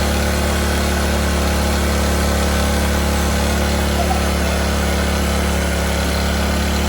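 Small 2.7 kVA generator engine running steadily at the high speed it climbs to on its own, a fault the mechanic traces to a loose governor.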